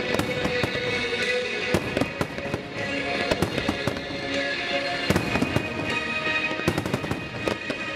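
Fireworks display: aerial shells and low-level comets going off in a continuous string of bangs and crackles, with a tight cluster of bangs near the end. Music plays along with the shots.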